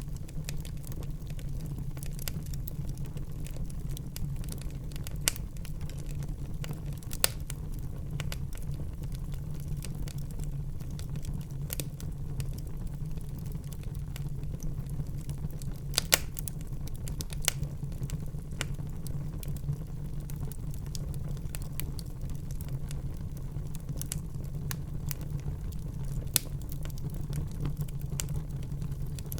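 Wood fire burning in a fireplace: a steady low rumble of flame with irregular sharp crackles and pops, a few louder pops standing out.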